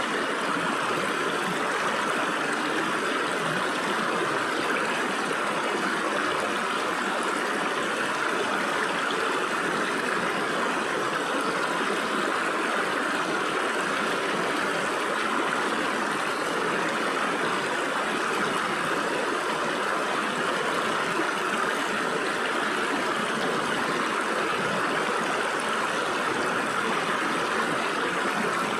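Stream water flowing and splashing through gaps between rocks, a steady rushing babble that holds even throughout.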